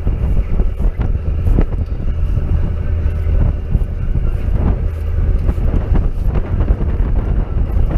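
Wind buffeting the microphone in a heavy, steady rumble aboard a boat, with a faint constant hum underneath and a few light knocks.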